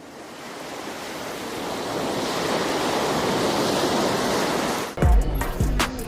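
Steady rush of ocean surf, swelling up over about five seconds, then cut off suddenly by music with a strong bass beat about five seconds in.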